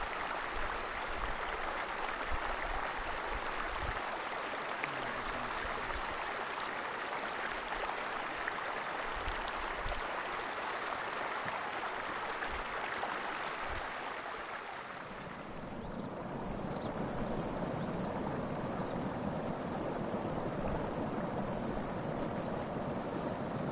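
Waterfall water rushing steadily. About fifteen seconds in it dips briefly, then gives way to a deeper, duller rush with less hiss.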